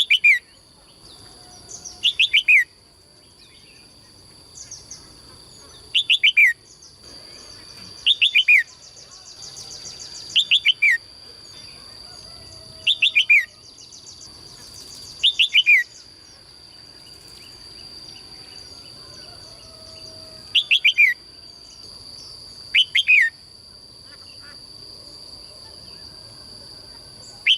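A songbird calling over and over: clusters of three or four short, sharp notes, each sliding down in pitch, repeated about every two to three seconds, over a steady high-pitched whine.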